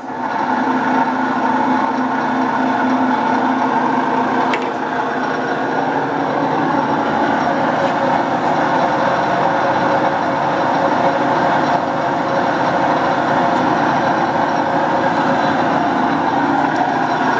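Older Aronson welding positioner running, its electric motor and Graham mechanical variable-speed transmission turning the faceplate with a steady mechanical hum carrying several held tones.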